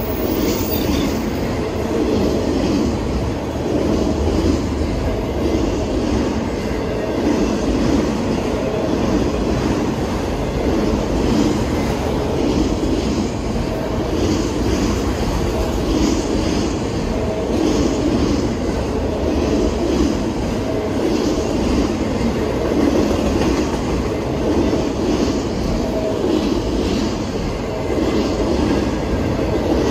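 Empty autorack freight cars rolling past at close range: a steady rumble of steel wheels on the rails.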